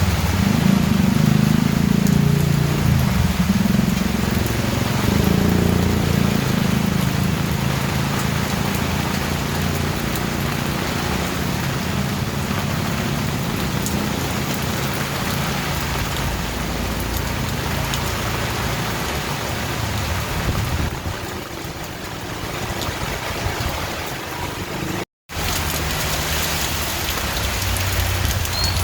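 Steady heavy rainfall, with a low rumble of distant thunder rolling through the first several seconds and fading away. The sound cuts out completely for a split second about 25 seconds in.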